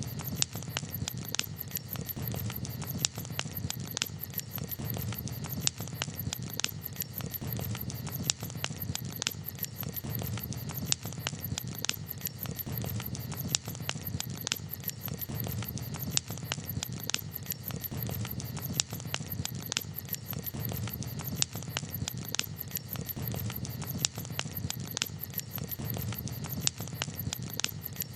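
Campfire crackling: irregular sharp pops and snaps of burning wood, several a second, over a low steady rumble.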